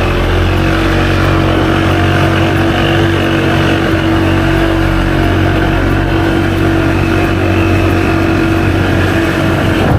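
Loud, steady vehicle noise heard from on board: a constant engine hum under road and wind rush.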